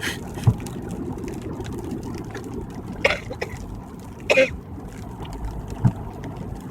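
Car driving on a wet highway, heard from inside the cabin: steady road and tyre noise, with two short sharp sounds about three and four and a half seconds in and a couple of low thumps.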